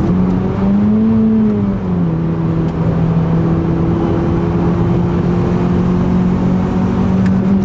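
2008 Acura TSX's four-cylinder engine running through an exhaust with a bad leak while driving. The engine note rises briefly about a second in, drops back, then holds a steady drone that climbs slowly.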